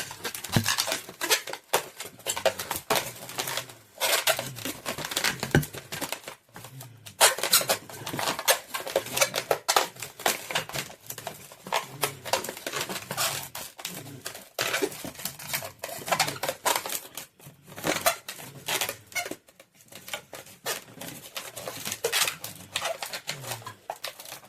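Latex modelling balloons being handled and twisted: a dense run of irregular rubbery rubs, squeaks and crackles, with sharper snaps here and there.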